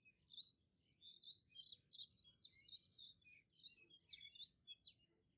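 Faint birdsong: many quick, overlapping chirps and short whistled glides from small birds, thinning out near the end.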